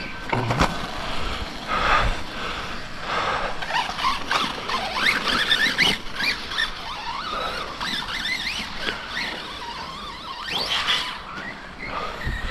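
Electric RC trucks' brushless motors whining up and down in pitch as the throttle is blipped and released, several quick rises and falls overlapping, with a few knocks from the trucks landing or hitting the ground.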